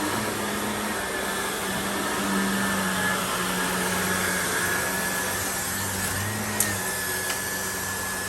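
Shark Navigator Professional upright vacuum cleaner running steadily on carpet, with a thin high whine over the motor noise. There is one brief click late on.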